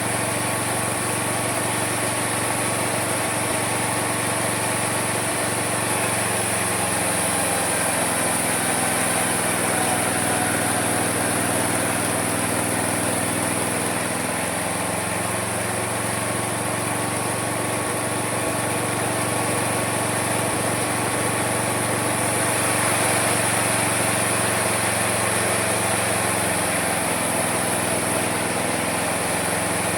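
Homemade mini sawmill's engine running steadily, its pitch shifting a few times.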